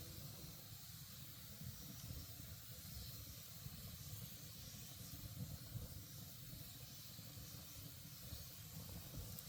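Campfire burning with a faint steady hiss and small irregular crackles.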